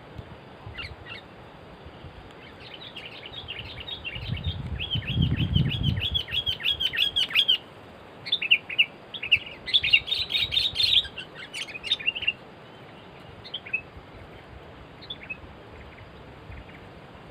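Sooty-headed bulbuls chirping in a rapid run of short notes, then a second burst of runs about eight seconds in, then a few scattered calls. A low rumble sits under the first run.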